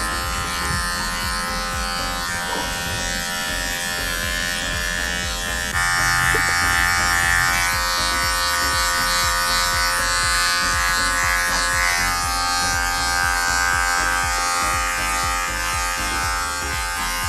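Electric dog-grooming clippers running with a steady buzz, getting louder about six seconds in.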